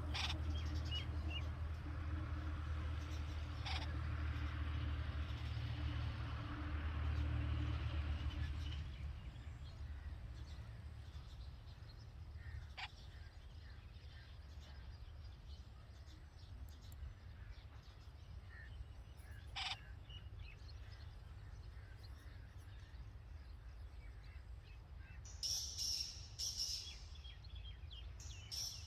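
Red-vented bulbuls at the nest: a few short, sharp calls spaced several seconds apart, then two quick bursts of high chirping near the end. A low steady hum underlies the first third and then fades out.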